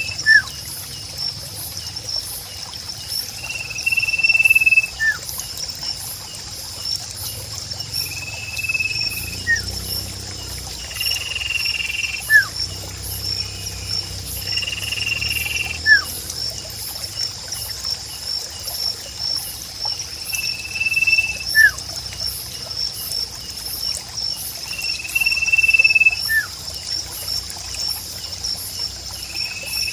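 A sirpu bird repeating one steady clear whistle of about a second, every few seconds, each followed by a short sharp chirp. Beneath it run a steady pulsing insect chorus and trickling water.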